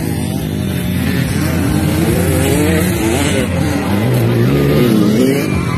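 Several motocross dirt bike engines running together, their pitch rising and falling as the riders rev and shift.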